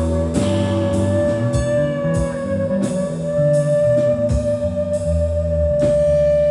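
Live blues-rock band playing an instrumental passage: one long high note held steady over a moving bass line and drums with cymbal hits.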